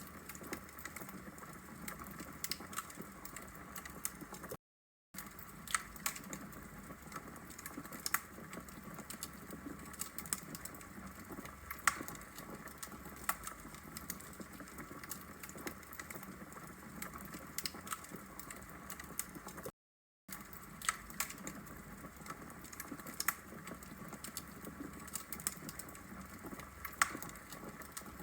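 Wood fire crackling in a fireplace: irregular sharp pops and snaps over a steady low hiss of the burning logs. The sound cuts out completely for a split second twice, about 5 and 20 seconds in.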